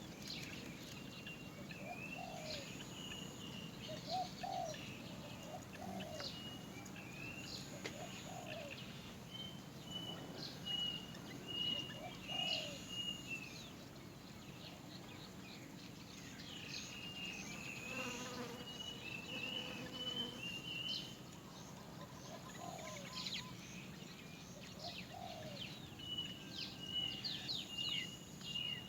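Great myna chick begging for food: repeated short, high calls, some drawn out into thin, wavering notes, with a lower short call every second or two.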